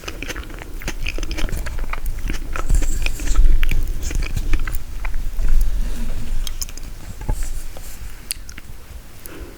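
Close-miked eating of frozen tiramisu: bites and chewing with many sharp wet mouth clicks. The loudest stretch is in the middle, and it gets quieter near the end.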